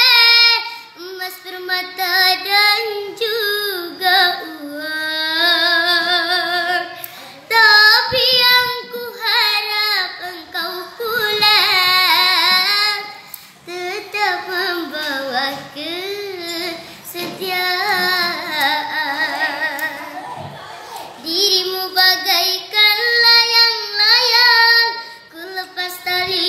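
A ten-year-old girl singing solo without accompaniment, her voice wavering in vibrato through long ornamented runs, with brief pauses for breath.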